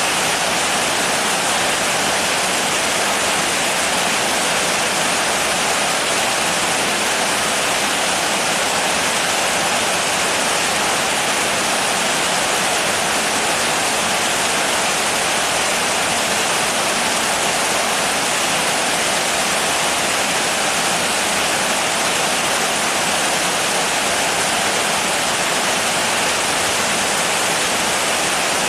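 Steady heavy rain, an even hiss with no separate drops, thunder or changes in level.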